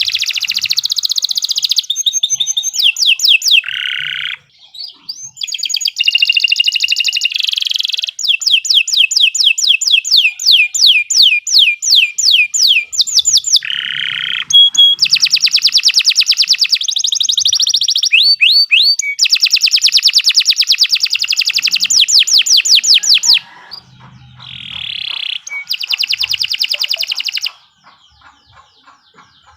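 Domestic canary singing a long, vigorous song of rapid trills and rolls, shifting from one phrase to the next every second or two. The song breaks off briefly about four seconds in and again near the end.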